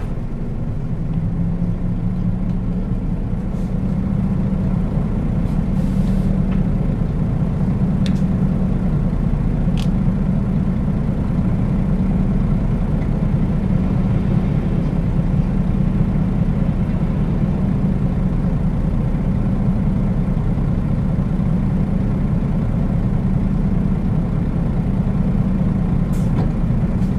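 Nissan Diesel KL-UA452KAN city bus heard from inside the cabin while under way: a steady diesel engine drone that builds a little in the first few seconds, then holds, with road noise and a few faint ticks and short air hisses.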